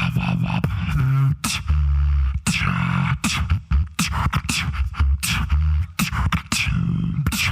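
Solo beatboxing: vocal kick and snare hits over held sub-bass tones in a rhythmic pattern, with a quick warbling vocal sweep about a second in.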